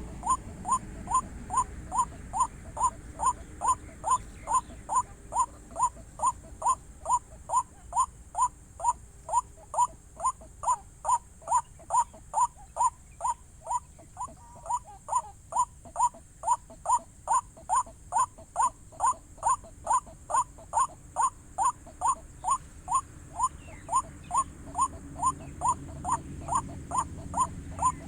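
White-breasted waterhen (wak-wak) calling: a single short note repeated monotonously, about two times a second, without a break.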